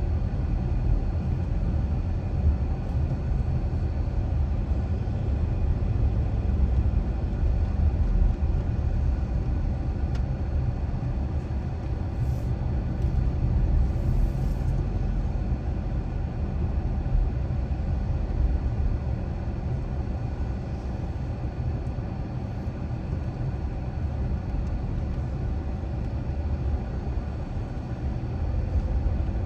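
Car driving steadily: a continuous low rumble of engine and road noise.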